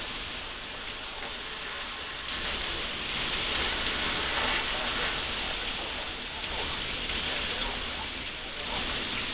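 Heavy thunderstorm rain pouring down, a steady hiss that grows louder about two seconds in.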